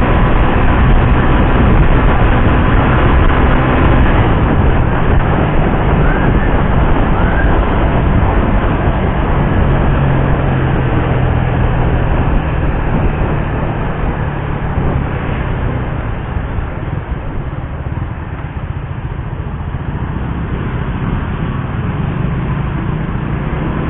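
Suzuki GSX-R150 motorcycle's single-cylinder engine running under way, with steady rushing noise from the ride. It gets quieter about halfway through and dips further a few seconds later.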